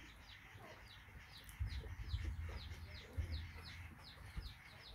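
Birds chirping in quick, repeated high falling notes, about four a second, with a few lower clucking calls. Soft low thumps of movement come in from about a second and a half in.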